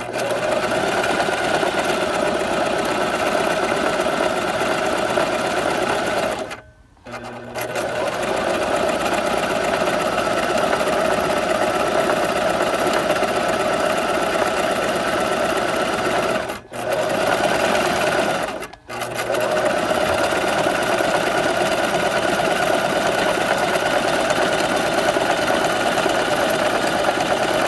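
Sewing machine running steadily, stopping briefly three times: once for about a second roughly a quarter of the way in, then twice for a moment about two-thirds of the way through.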